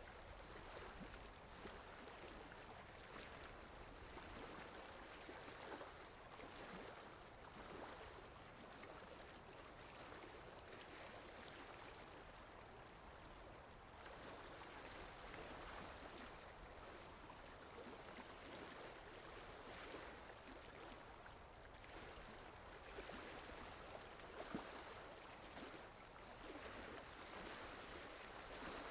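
Faint, steady rain falling, an even wash of noise with the odd louder drop.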